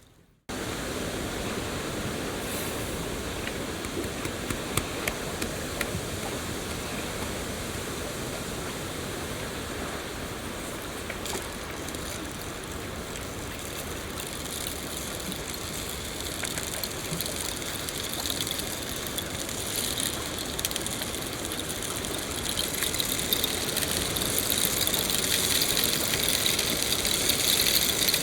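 Steady rain falling: a dense, even hiss dotted with many sharp drop impacts. It cuts in after a brief half-second gap of silence at the start and grows brighter and a little louder over the last several seconds.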